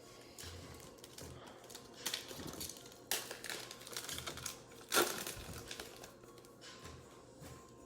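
Trading-card packs and cards being handled close to the microphone: irregular rustling and crinkling of wrapper and card stock, with a sharper snap about five seconds in.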